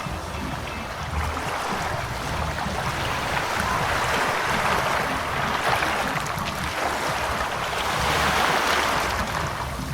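Ocean surf washing in continuously, the noise of the waves swelling and easing in slow surges.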